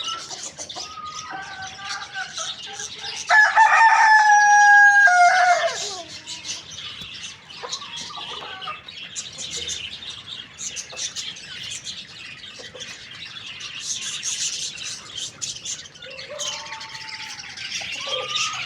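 A rooster crows once, loudly, about three seconds in: a long held call that drops in pitch at the end. Fainter chicken calls come before and near the end, over steady chirping of small birds.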